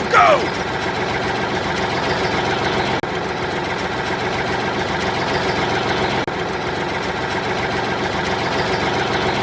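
An engine idling steadily, with two brief drop-outs about three and six seconds in.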